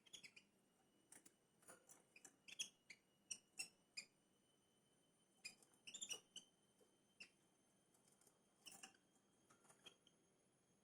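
Faint, short, high-pitched chirps from small birds, coming irregularly in little clusters over a faint steady high whine.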